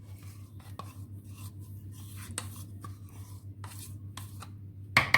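Scattered light taps and clicks of kitchen utensils and dishes over a steady low hum, with a louder clatter of several quick hits near the end.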